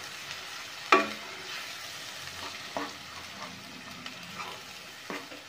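Masala paste frying in oil in a nonstick kadhai, a steady sizzle, being sautéed until the oil separates. A steel ladle stirs it and knocks against the pan a few times, most sharply about a second in.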